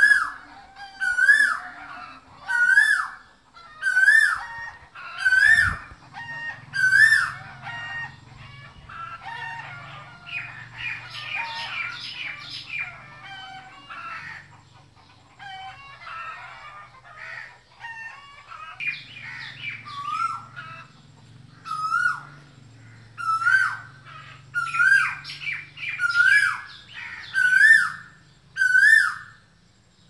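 A bird calling a loud, sharp note over and over, about once every second and a half, each note a quick up-and-down slide in pitch. In the middle the calling gives way to several seconds of rapid chattering before the repeated calls return.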